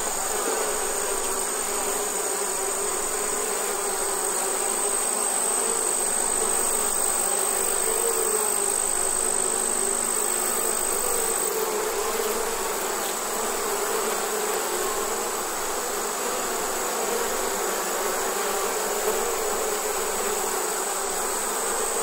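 Bees buzzing in a steady, dense hum that holds level throughout. A thin, high steady tone rides above it and cuts off about halfway through.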